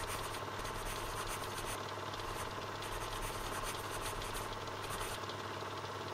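A steady machine hum at an even pitch, with a light hiss above it.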